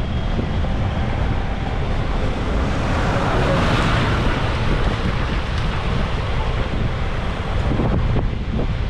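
Wind buffeting the microphone over roadside traffic noise, with a vehicle passing close by about three to four seconds in.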